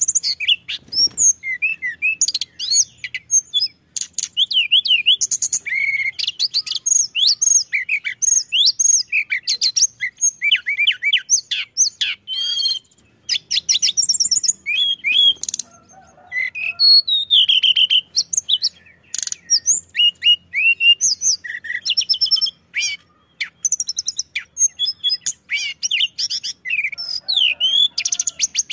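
Tledekan gunung singing a continuous, rapid song of high whistles, chirps and fast trills, with only brief pauses.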